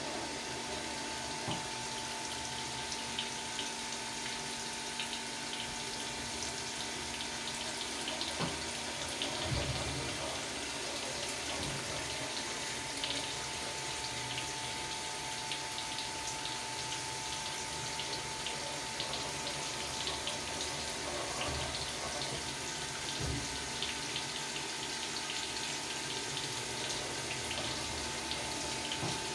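CNC milling machine cutting a cast pump volute, with coolant spraying and running over the part. A steady whine holds throughout over the rush of coolant, with scattered faint ticks and a few low thumps.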